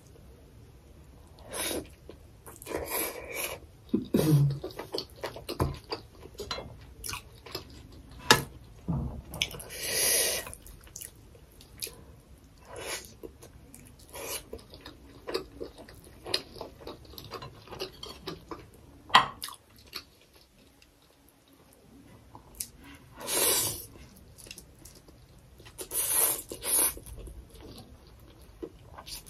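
Wet chewing and mouth sounds of a person eating a steamed chicken momo, with scattered small clicks and a few louder sounds of about a second each.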